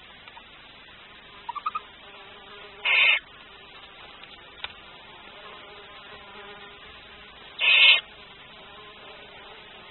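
Barn owl in a nest box giving two harsh, hissing calls about five seconds apart, each lasting under half a second, with three quick faint chirps shortly before the first.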